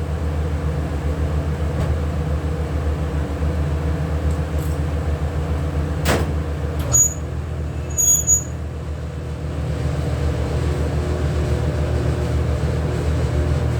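Steady low machine motor hum, with one sharp knock about six seconds in and a few short high-pitched pings soon after.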